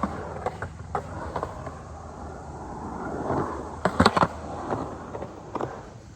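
Skateboard rolling on concrete, the wheel noise swelling and fading, with sharp clacks and a loud cluster of board impacts about four seconds in.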